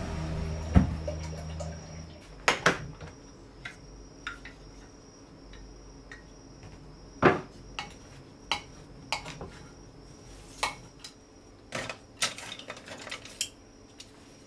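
Dishes and cutlery clinking and knocking: a string of separate sharp clinks, spread unevenly, over a low hum that fades out about two seconds in.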